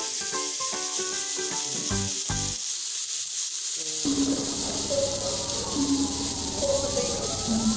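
Meat pieces sizzling as they fry in an aluminium pot, a steady hiss, under background music that changes to a new passage about halfway through.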